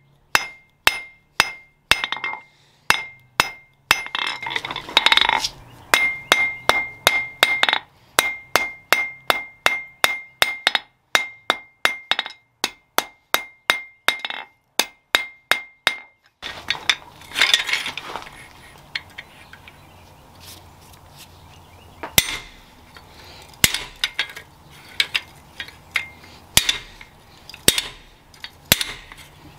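Hand-hammer blows on steel at an anvil during forging, a steady rhythm of about two to three strikes a second with a ringing tone between them. About halfway through the strikes become sparser and irregular over a steady background noise.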